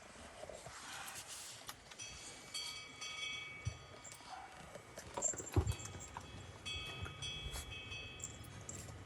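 Small bells on Jindo puppies' collars jingling in clusters of high ringing tones as the puppies move, with gusts of wind rumbling on the microphone.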